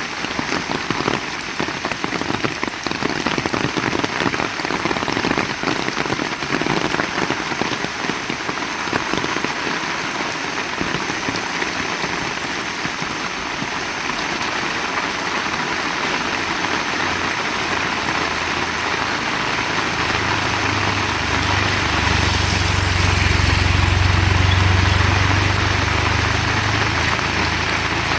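Heavy rain falling steadily. About two-thirds of the way in a low rumble rises under the rain, loudest near the end.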